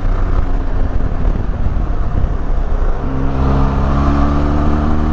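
Benelli TRK 502X's parallel-twin engine running under way, with wind and road rumble on the bike-mounted microphone. The engine note thins briefly, then comes back stronger and holds steady about three seconds in.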